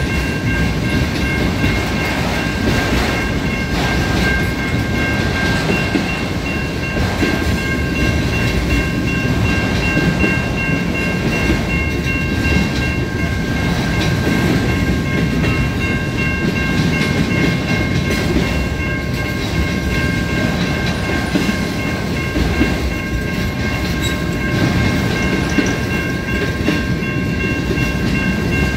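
A train rolling past on the rails, a steady rumble of wheels and cars, with several steady high ringing tones held over it; the highest tone drops out partway through.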